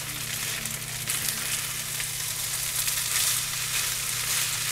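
Fried rice with chicken and soy sauce sizzling in a frying pan as it is stirred: a steady hiss dotted with crackles, over a steady low hum.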